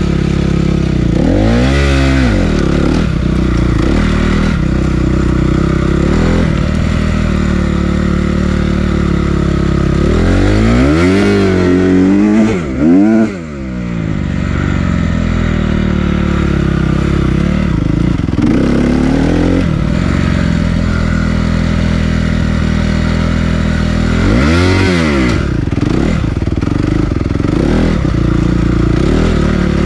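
Honda CRF250R dirt bike's single-cylinder four-stroke engine running under throttle, its revs climbing and dropping several times, most clearly about two seconds in, around eleven to thirteen seconds, and near twenty-five seconds.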